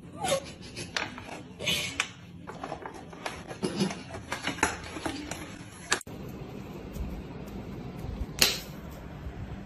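A plastic cat-food bag crinkling in quick, irregular crackles and clicks as a cat tugs it with its teeth. About six seconds in the sound cuts to a duller, noisier background with one sharp click near the end.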